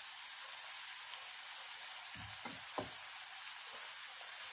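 Onion and grated carrot sizzling gently in a frying pan, with a few soft knocks a little past halfway.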